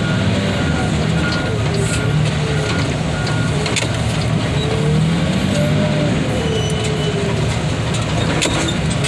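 Heavy machinery engine running steadily, with drawn-out gliding metal squeaks from a car's hood as the car is handled.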